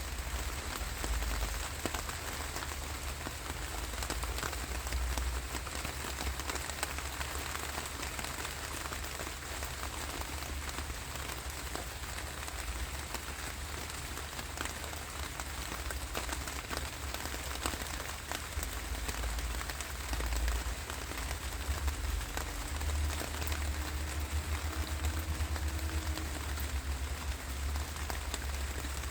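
Steady rain falling on a surface: an even hiss of patter with scattered drop ticks, over a low rumble.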